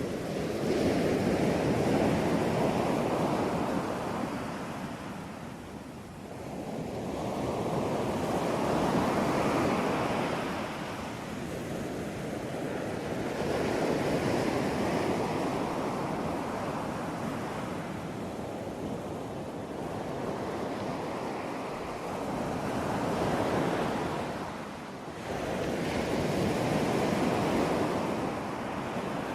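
Ocean surf: waves breaking and washing in, swelling and ebbing about every five or six seconds.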